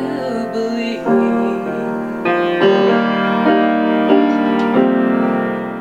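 Piano playing sustained chords after the last sung line, changing chord about every second, and fading out near the end.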